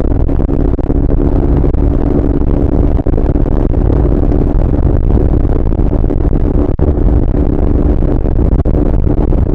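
Triumph Speed 400's single-cylinder engine running under way at a steady, high pitch, over a heavy low rumble.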